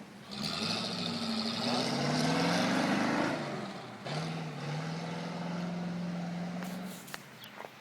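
A motor vehicle engine running: its pitch rises through the first few seconds, drops away, then comes back and holds steady for about three seconds before fading.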